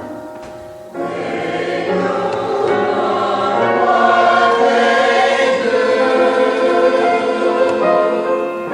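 A choir singing with accompaniment, coming in anew about a second in and swelling louder through the middle.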